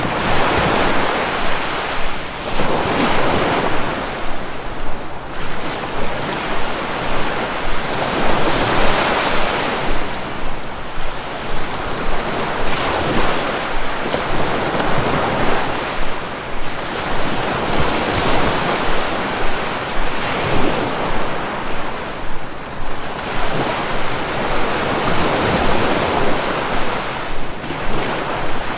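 Sea waves washing onto the shore, a steady wash of surf that swells and recedes every few seconds.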